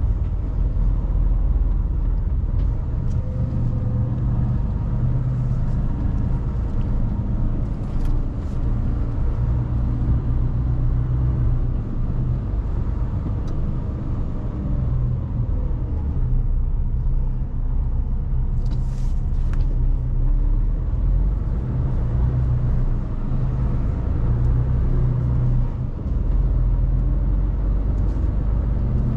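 Mercedes Actros truck's diesel engine running steadily while driving, heard from inside the cab as a low hum whose pitch shifts a little with speed. Brief hisses come about 8 seconds and 19 seconds in.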